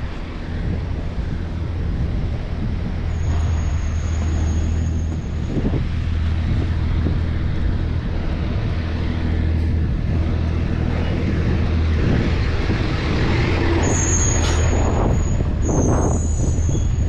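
Downtown street traffic with a heavy vehicle's engine running steadily close by. A thin high squeal comes in briefly early on and again near the end.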